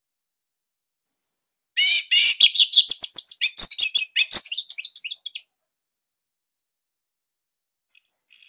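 Orange-headed thrush (anis merah) singing: a fast, varied phrase of high whistles and rapid notes lasting about three and a half seconds, then a pause and a few thin high notes near the end.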